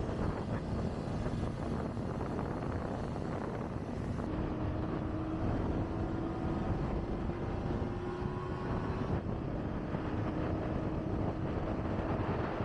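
Wind rushing over the microphone on a moving Kawasaki Ninja ZX-25R motorcycle, with its engine tone audible underneath. The engine note climbs slowly in pitch from about four seconds in, drops around nine seconds, then holds steady.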